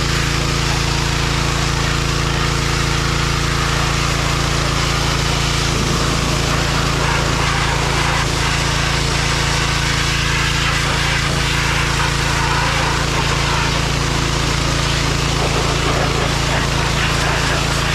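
John Deere 1025R compact tractor's three-cylinder diesel engine running steadily at a constant speed while the backhoe works.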